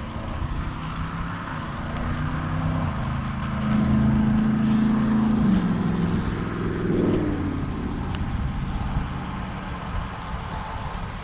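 A motor vehicle's engine passing close by, its note growing loudest about four to five seconds in and dropping in pitch as it goes past, over wind rumble on the microphone.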